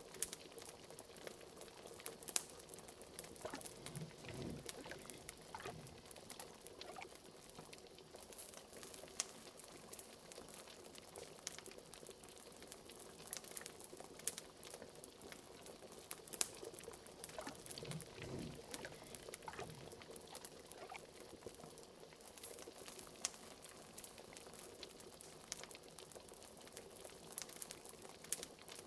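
A cauldron of liquid bubbling at a steady boil, with a few deeper bloops, over a crackling fireplace that gives sharp pops and crackles scattered throughout.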